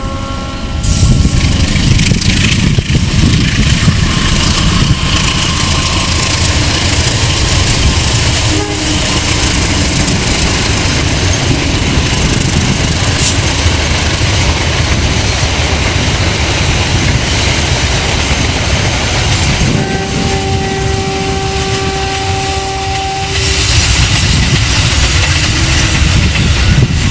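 Passenger train passing close by, a loud rumble of the locomotive and wheels on the rails starting suddenly about a second in. The horn sounds once about twenty seconds in, a steady tone held for about three and a half seconds.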